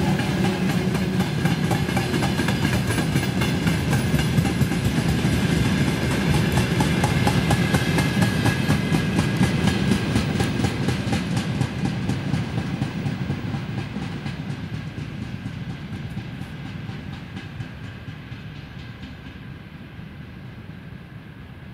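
Freight train of railway tank wagons rolling past, the wheels clacking over the rail joints in a fast, even rhythm. The noise fades steadily over the second half as the train draws away.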